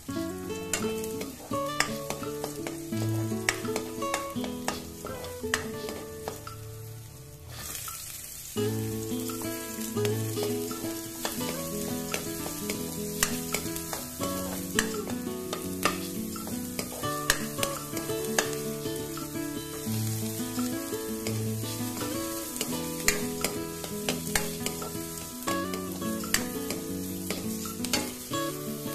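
Garlic, then onion and ginger, sizzling in hot oil in a metal wok, with a spatula scraping and stirring. The sizzle drops out briefly about eight seconds in. Background music with a simple melody plays underneath.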